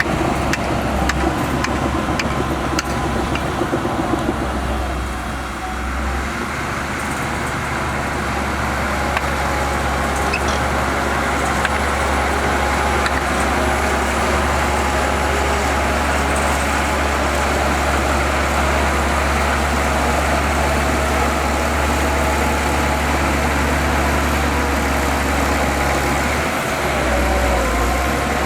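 Diesel engine of heavy earthmoving machinery running steadily under work, with a quick series of sharp metallic clicks in the first few seconds. The engine note shifts near the end.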